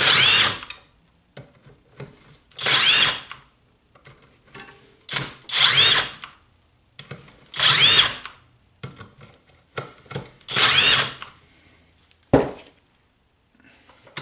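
Cordless power driver spinning in five short bursts, backing out the cylinder head bolts of a Briggs & Stratton small engine, with a single sharp knock near the end.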